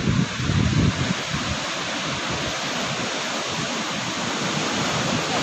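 Sea surf washing onto the shore as a steady, even rush, with wind buffeting the microphone in the first second.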